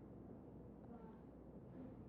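Near silence: faint room tone with a low steady hum during a pause in the sermon.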